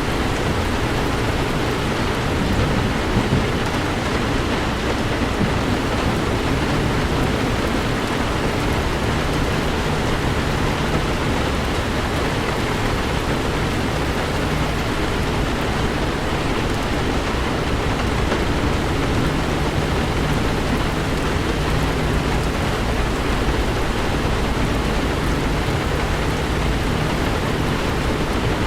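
Heavy rain falling on a car being driven, a steady, even hiss over low road rumble. A low steady hum joins about nine seconds in and drops away near the end.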